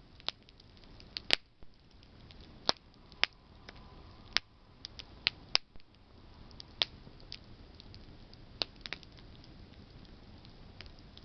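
Campfire of burning branches crackling: irregular sharp pops and snaps over a faint steady hiss of flame. The loudest pop comes just over a second in, and the pops grow sparser after the middle.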